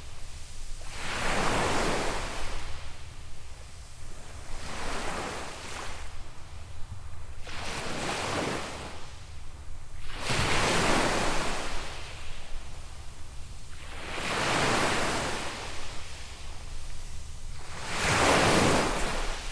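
Small waves breaking and washing up a sandy beach: a rush of surf that swells and fades about every three to four seconds, six times in all.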